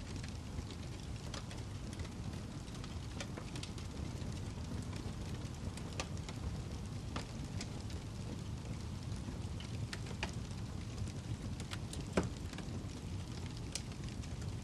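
Wood log fire burning in a fireplace: a steady low rumble with irregular sharp crackles and pops, one louder pop about twelve seconds in.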